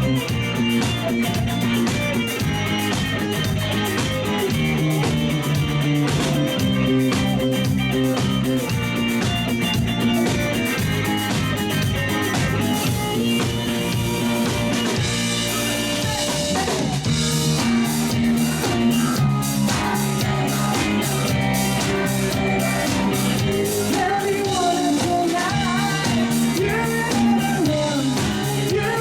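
Live rock band playing a song: drum kit, electric guitar and bass, with a singing voice on top in the second half.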